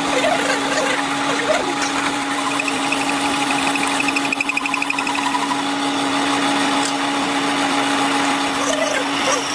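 A workshop machine running steadily with a constant hum. From about two and a half to five seconds in, a fast pulsing whine sounds over it.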